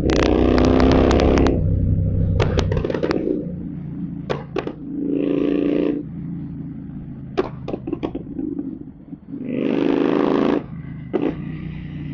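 Royal Enfield Continental GT 650's parallel-twin engine on a Code 6 tune, revved in three short blips (at the start, about five seconds in and about ten seconds in) and dropping back to idle between them. Sharp exhaust pops and crackles follow each rev as the throttle closes.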